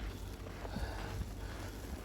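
Wind rumbling and buffeting on the microphone outdoors in a snowstorm, with faint footsteps in snow.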